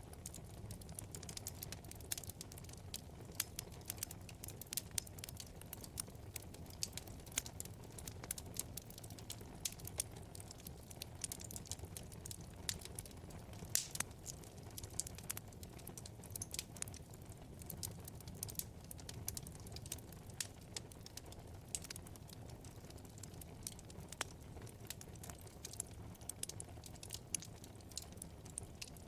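Wood fire burning in a fireplace: constant irregular crackling and small snaps over a soft low rumble of flame, with a few louder pops, one of the sharpest about halfway through.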